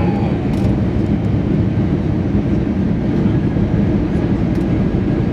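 Steady low rumble of a moving vehicle heard from inside, even and unbroken throughout.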